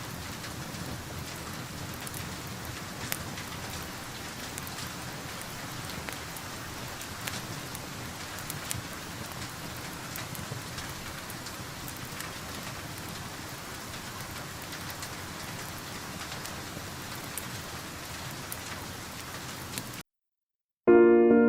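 Steady rain heard from indoors, with scattered sharp crackles and pops of a wood fire. About twenty seconds in it cuts off abruptly, and after a second of silence piano music begins.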